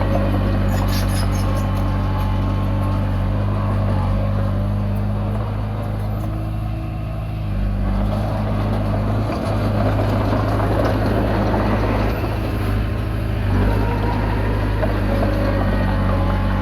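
Komatsu D20P bulldozer's diesel engine running steadily under load. It eases off slightly about six to eight seconds in, then picks up again.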